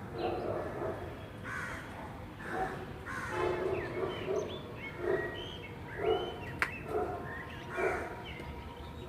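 Crows cawing again and again in short, harsh calls, with higher chirps between them and a single sharp click about two-thirds of the way through.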